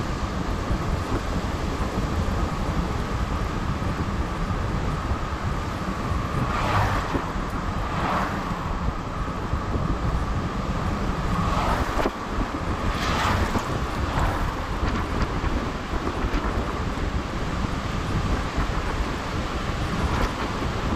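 Strong gale-force wind buffeting the microphone over heavy surf on a stormy shore, with a few brief louder rushes of breaking waves or gusts near the middle.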